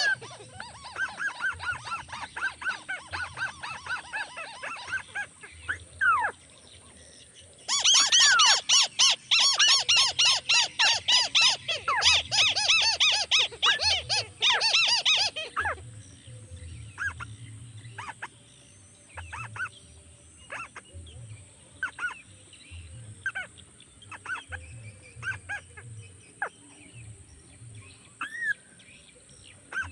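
Crakes calling: rapid series of short arching notes, with a loud dense run from about eight to fifteen seconds in, then scattered single calls.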